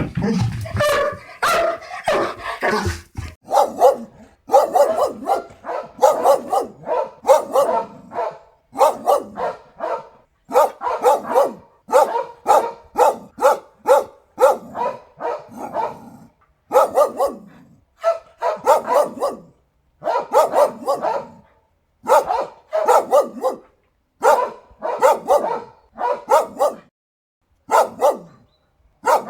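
Dogs barking over and over in quick runs of several barks, each run broken off by a short pause.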